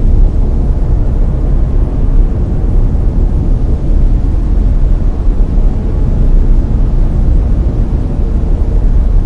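Steady, loud brown noise: a deep, even rumble strongest in the bass and thinning toward the treble, with no changes or events.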